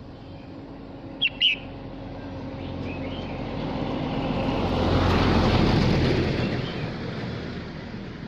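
A vehicle passes by, its noise swelling to a peak about five seconds in and fading away. Just over a second in, a red-whiskered bulbul gives two short, bright notes.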